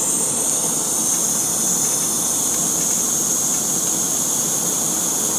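A steady, even hissing rush with a rough lower rumble underneath, unchanging throughout.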